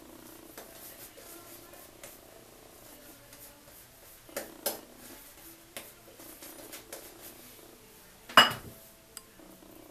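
A few light clinks and knocks of shaving gear being handled against hard surfaces, the loudest near the end.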